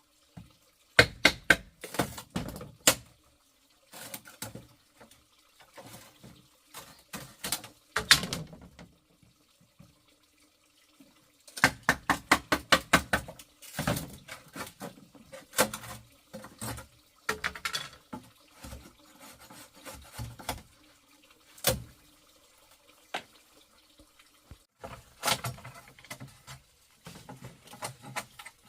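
Irregular knocks and taps in scattered groups, with a quick run of strokes about twelve seconds in.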